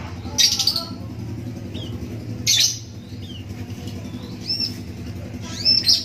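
A young hand-fed ciblek (a prinia) calling: two harsh squawks, one near the start and one about two and a half seconds in, then short high chirps that rise and fall near the end.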